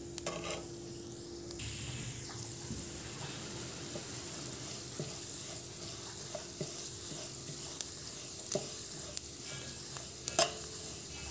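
Split moong dal sizzling as it fries in a little oil in a kadai, with a metal spatula stirring through it and scraping or tapping the pan now and then. The dal is being roasted until lightly reddish-golden.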